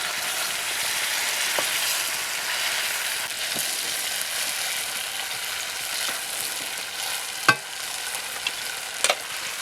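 Whole masala-marinated chicken sizzling steadily as it fries in oil in a pan. Two sharp knocks come near the end.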